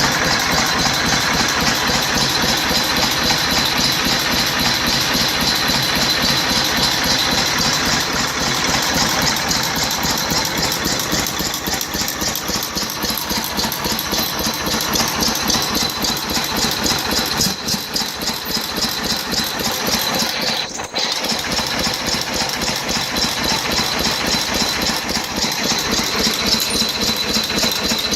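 International Harvester 6 hp Type M single-cylinder stationary engine running steadily, with a rapid, even rattling beat. The sound dips for a moment about two-thirds of the way through.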